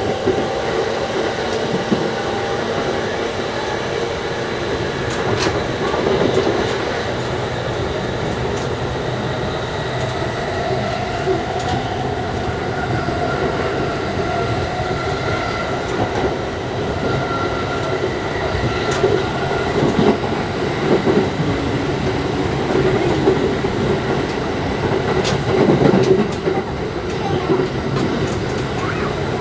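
Electric commuter train pulling away and picking up speed, heard from inside the carriage: a steady rumble of wheels on rail with occasional clicks over rail joints. Faint tones rise in pitch as it speeds up.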